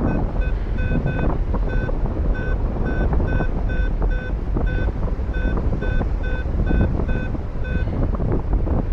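Paragliding variometer beeping, short steady-pitched tones repeating about two to three times a second, the signal that the glider is climbing in lift, over heavy wind noise on the microphone.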